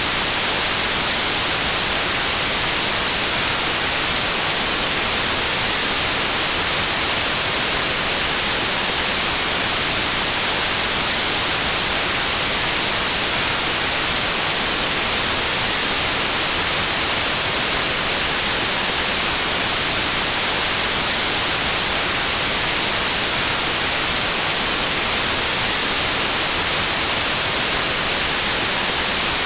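Steady white noise: an even, unbroken hiss, brightest in the high frequencies, with no changes.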